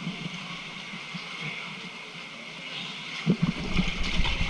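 Steady hiss of rushing water. About three seconds in, a low rumbling with irregular thuds joins it and grows louder.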